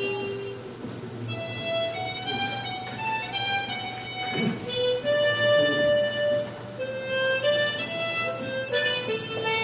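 Soprano and alto harmonicas (keys G and G#) playing a duet, a melody of held notes moving from one note to the next.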